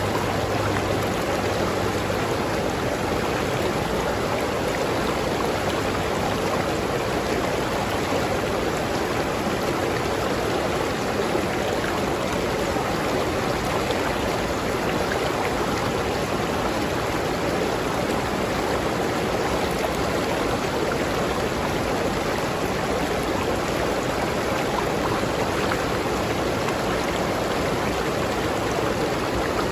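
River stream flowing over rocks: a steady, even rush of water.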